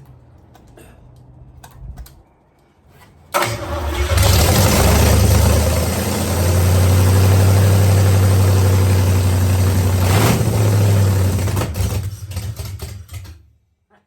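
A 265 cubic-inch V8 fires suddenly about three seconds in and runs loud for about nine seconds, popping as it goes, then sputters and dies near the end. The popping means the tune is still off after a fresh setting of the carburetor mixture screws.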